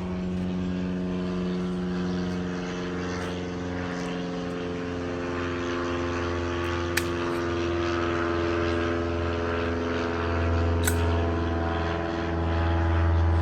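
A steady engine drone made of several held tones, its pitch shifting slightly near the end, with two short sharp clicks, about seven and eleven seconds in.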